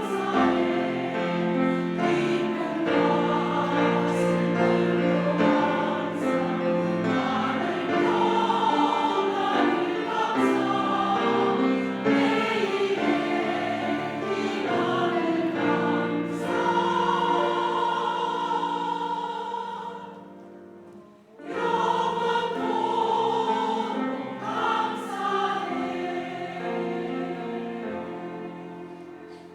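Church choir singing in full sustained chords, breaking off for about a second two-thirds of the way through, then resuming, with the final chord dying away near the end.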